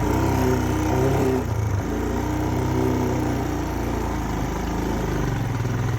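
Motorcycle engine running steadily while riding at around 30–40 mph, with rushing wind noise. The engine note shifts once about two seconds in.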